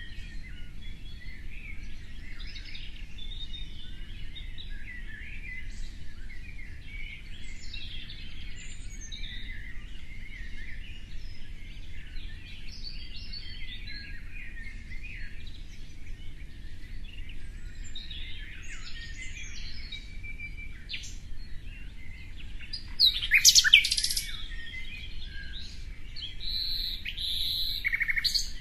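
Many small birds chirping and calling together in a busy, continuous chorus. One bird gives a much louder, sharper call about three-quarters of the way through, and a few short held whistles come near the end, over a steady low hum.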